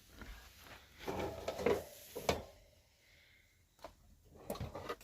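Handling noises: scraping and rustling for about a second, then several short sharp knocks.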